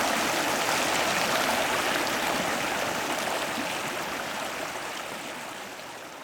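Steady rushing water noise that fades out gradually toward the end.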